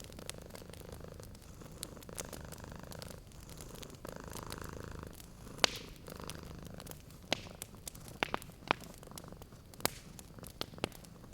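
Domestic cat purring steadily in a low, pulsing rumble, with a wood fire crackling and popping now and then; the sharpest pop comes about halfway through.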